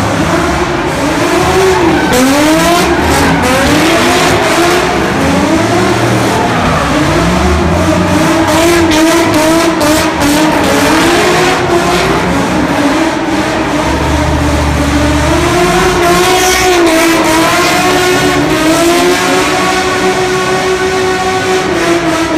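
A car engine revs up and down in repeated surges while the car spins donuts, with tire noise underneath. About two-thirds of the way in, the engine settles into a higher, steadier pitch.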